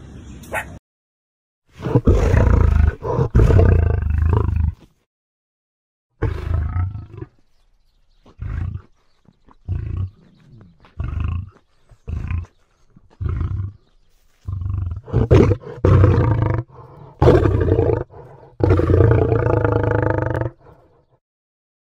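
Male lion roaring: several long, loud, deep calls, then a run of short grunts, then more long calls near the end.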